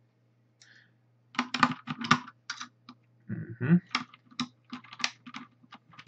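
Plastic keycaps clacking on a Filco Majestouch Linear R mechanical keyboard as a keycap is worked off its switch stem by hand: irregular clicks and rattles starting about a second and a half in.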